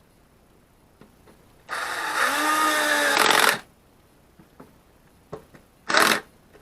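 A small electric motor runs for about two seconds, its pitch rising and then falling, then runs again briefly near the end, with a few faint clicks in between.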